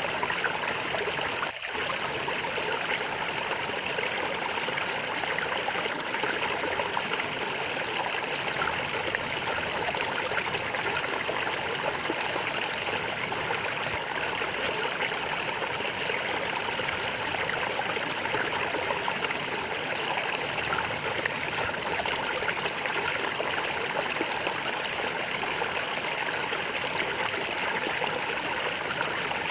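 Flowing water gurgling and trickling in a steady stream, with a momentary drop in level about one and a half seconds in.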